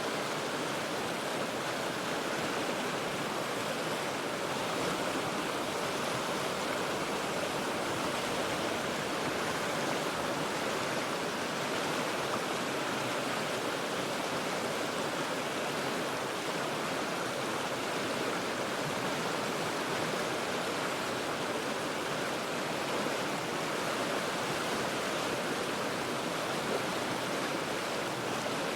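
River water rushing steadily over rocks, an even unbroken wash of noise with no separate splashes or other events.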